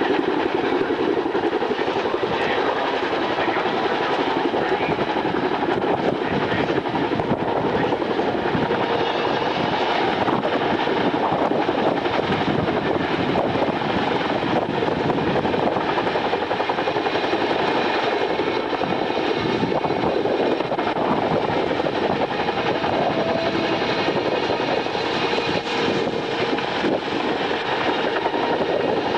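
Steady aircraft engine noise that holds the same level throughout, with no rise or fall of a passing flyby.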